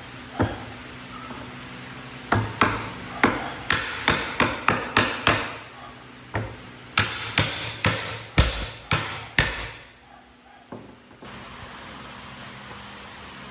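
Hammering: a quick run of sharp blows, two to three a second, with a short break about six seconds in, stopping at about nine and a half seconds.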